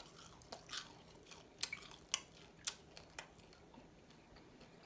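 A person chewing a strip of cooked bacon, with a run of short crisp crunches over the first three seconds or so, then quieter chewing.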